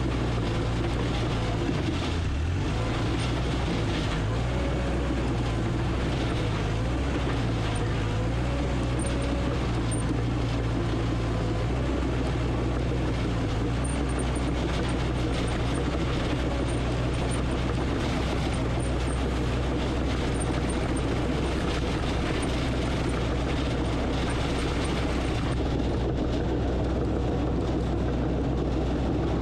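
Diesel engine of heavy earthmoving equipment running steadily under work, its low drone shifting slightly in pitch.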